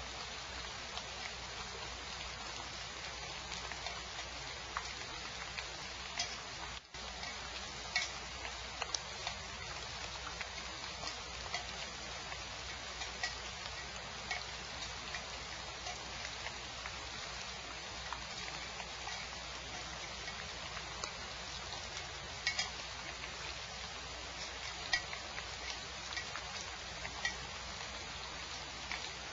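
Steady rain hiss with scattered, uneven ticks of drops striking close by, with a brief cut-out about seven seconds in.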